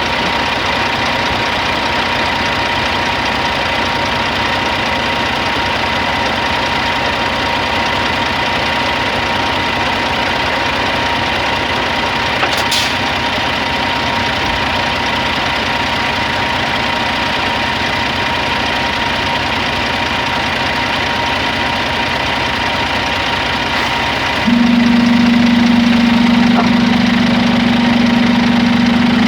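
Scania G450 truck's diesel engine idling steadily, with a faint steady whine over it and one short click about halfway through. About five seconds before the end a louder, steady low hum comes in and stays.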